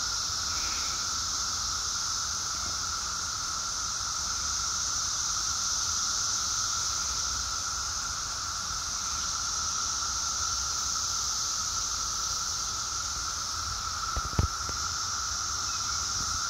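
A dense chorus of Brood X periodical cicadas: a steady, unbroken high-pitched hiss with a lower steady whine beneath it. A brief knock about fourteen seconds in.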